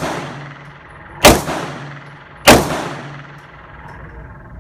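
Handgun shots: two sharp reports about a second apart, each with a long echoing tail, just after another shot as it begins.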